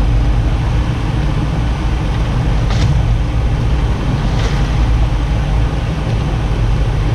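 Boat engine running steadily underway, a loud low drone, with two brief hissing bursts of spray or wind about three and four and a half seconds in.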